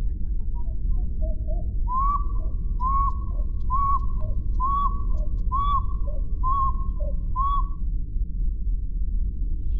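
A series of about seven short whistled notes, each rising then falling in pitch, evenly spaced about one a second, over a steady low rumble.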